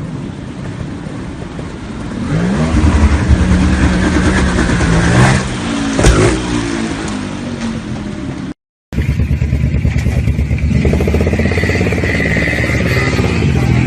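Motorcycle engine revving, its pitch climbing and falling several times, with one sharp bang about six seconds in. After a brief cut, a motorcycle engine runs steadily with an even pulsing note.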